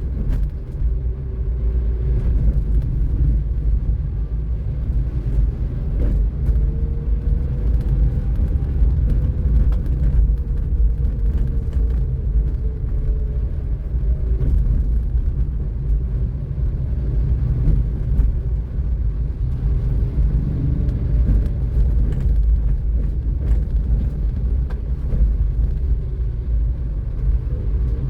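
Steady low rumble of a car driving on a city road: road and engine noise. A faint engine tone rises and falls slowly through the middle.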